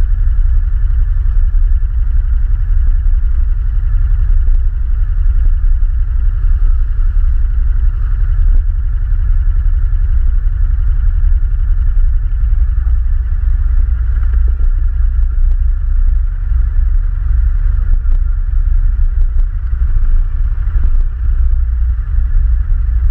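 ATV engine running steadily as the quad is ridden, with a loud, constant low rumble.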